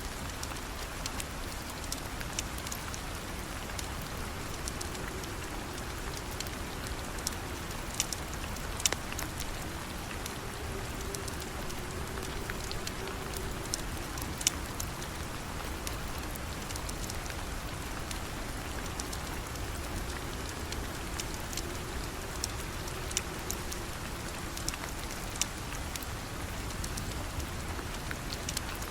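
Steady rain falling, an even hiss with many scattered sharp clicks over it.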